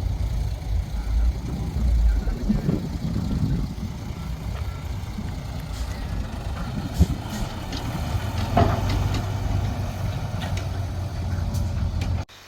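Diesel engines of a crawler bulldozer and dump trucks running in a low, steady rumble, with a sharp clank about seven seconds in. The sound cuts off abruptly near the end.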